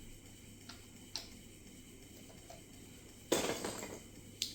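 Small plastic Lego pieces being handled: a few light clicks, then a short loud rattle of pieces about three seconds in, and one more sharp click near the end.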